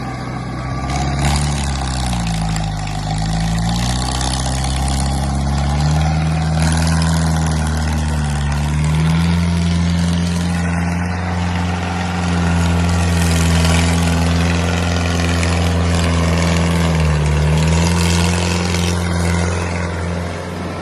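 New Holland 3630 tractor's three-cylinder turbocharged diesel engine running under load, pulling a fully loaded sand trolley. Its pitch dips about two seconds in and again near the end, picking back up each time.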